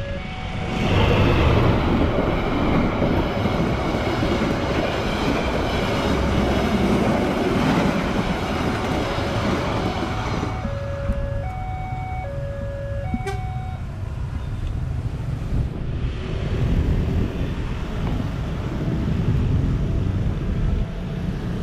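A passenger train passes over the level crossing, a loud rush of wheels and carriages lasting about ten seconds. After it is gone, the crossing's electronic warning bell sounds alone for a few seconds in stepped tones, then stops. Motorcycle engines then rise as the waiting traffic pulls away across the tracks.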